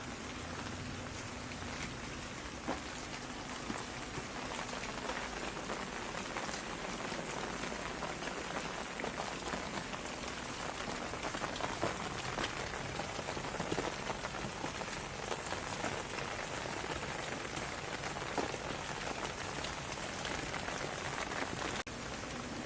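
Steady rain falling on a surface, an even hiss with many single drops striking sharply close by, a few of them louder than the rest.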